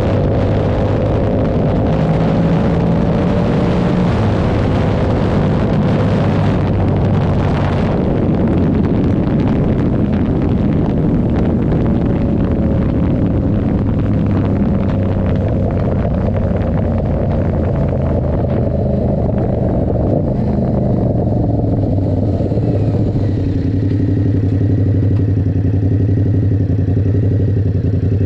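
Yamaha R7's parallel-twin engine through an SC Project aftermarket exhaust, running under way with wind and road noise. The rushing noise drops away after about eight seconds, and near the end the engine settles to a steady low, even note.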